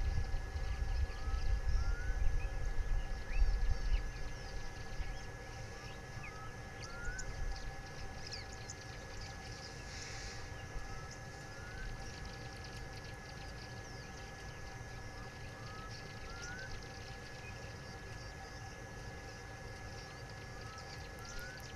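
Outdoor savanna ambience: a bird gives short rising chirps, usually two close together, every few seconds, over a steady faint hum and scattered faint ticks. A low rumble is loudest in the first four seconds, then dies away.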